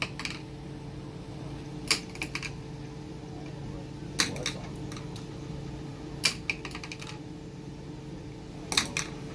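Sharp hard clicks and clacks, single or in quick little clusters every couple of seconds, over a steady low hum.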